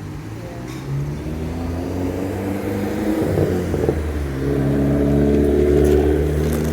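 A motor vehicle's engine running close by on the street, its pitch shifting mid-way and then getting louder in the last couple of seconds as it accelerates.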